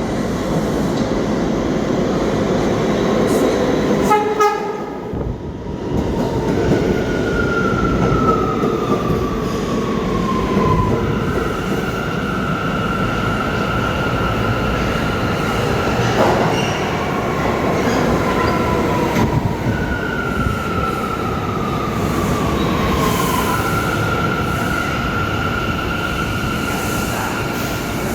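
New York City subway train rumbling through an underground station. High whining tones glide down and then hold steady, twice over.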